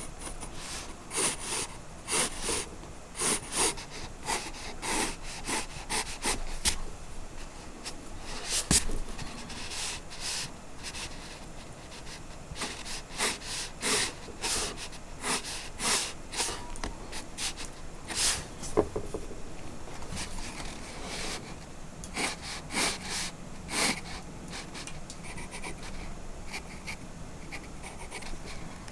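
Irregular runs of short scraping strokes with pauses between them, and one sharper click about nine seconds in; the strokes thin out near the end.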